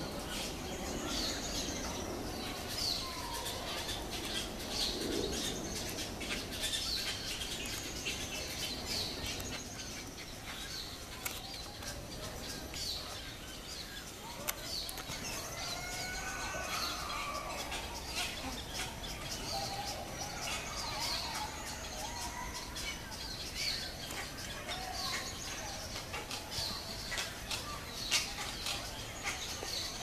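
Several wild birds chirping and calling: short high chirps repeat about once a second throughout, lower sliding calls come in around the middle, and there are a few faint clicks.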